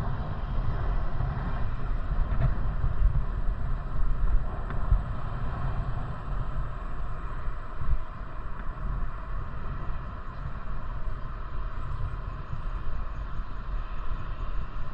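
Low, fluctuating rumble of wind buffeting the microphone on a moving bicycle, mixed with road noise from the ride.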